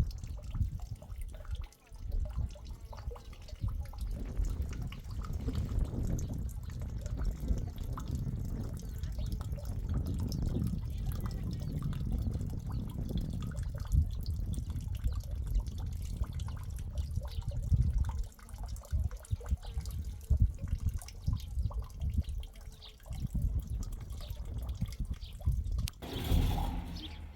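Liquid splashing and dripping irregularly, with uneven low knocks and sloshes.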